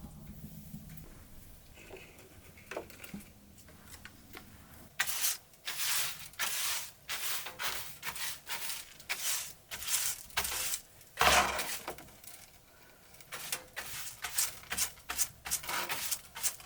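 A run of short, irregular rustling and scraping strokes, each lasting under half a second. They start about five seconds in, come in quick clusters, and the loudest falls a little past the middle.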